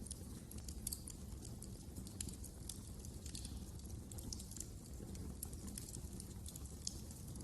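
Wood fire crackling: irregular sharp snaps and pops over a low, steady rumble of the flames.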